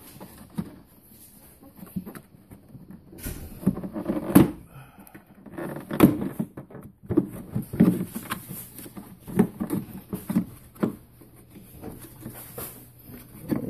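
Irregular knocks, clicks and scrapes of hands and a screwdriver working a motorcycle fairing's plastic cover and speaker loose. The loudest knocks come about four and a half and six seconds in.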